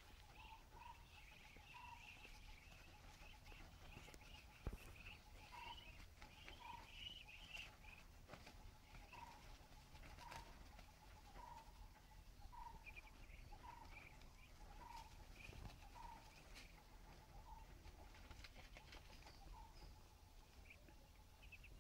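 Faint bird chirps: short calls repeating roughly once a second, with fainter, higher chattering calls among them and a few light ticks, over quiet background.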